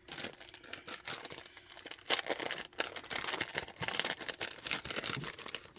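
A packet crinkling as it is handled and opened, a dense run of small crackles and rustles.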